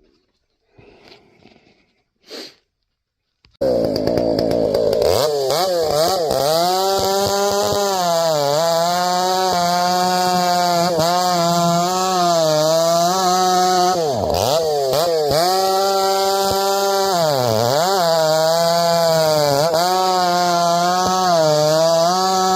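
A two-stroke chainsaw running at high revs comes in suddenly about three and a half seconds in, after faint rustling. Its engine note holds steady, dipping and recovering a few times, once deeply.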